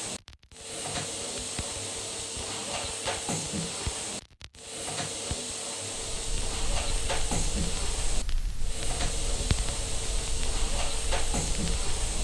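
Steady white-noise hiss with a faint steady hum, cutting out abruptly twice for a moment; about halfway through a low rumble joins under it.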